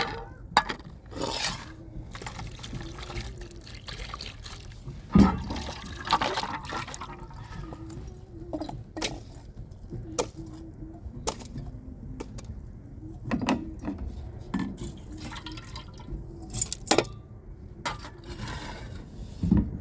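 Water being handled, splashing and pouring, among scattered knocks and clinks at irregular intervals.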